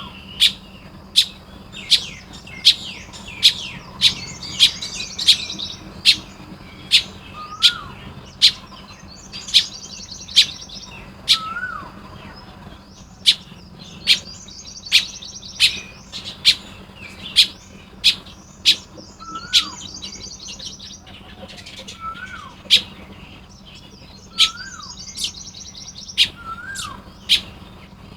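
A chorus of Baya weavers chattering and twittering at their nests. Sharp, loud ticks repeat about every 0.7 seconds throughout, and a short whistle that rises and then drops comes every few seconds.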